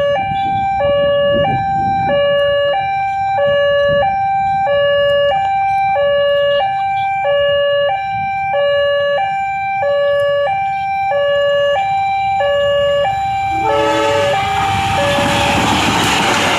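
Railway level-crossing warning alarm sounding, two tones taking turns at an even rhythm. About fourteen seconds in, an approaching train's rushing noise swells up and covers the alarm.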